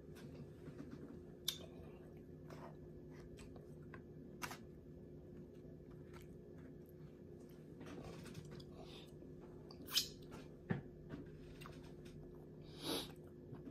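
Quiet chewing and eating of barbecue turkey tips and fries, with scattered short clicks and taps of a fork against a foam takeout container over a low steady hum.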